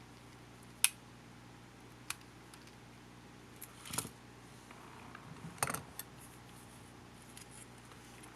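Sharp clicks and light clatter of small parts and tools being handled while a camcorder is taken apart. The loudest click comes about a second in, with short clusters of clicks around four and six seconds, over a steady low hum.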